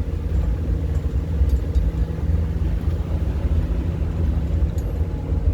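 Colectivo driving, heard from the back of the vehicle: a steady low rumble of engine and road noise, with a faint steady hum above it.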